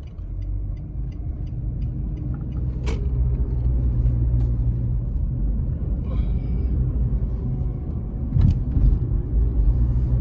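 Car interior road and engine rumble while driving, growing louder over the first few seconds. A quick light regular ticking is heard in the first couple of seconds, with a few scattered clicks.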